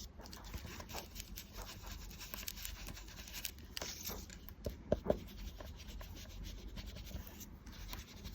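Ink blending brush rubbing Distress Oxide ink onto a paper tag in faint, irregular strokes, with a couple of light taps about five seconds in.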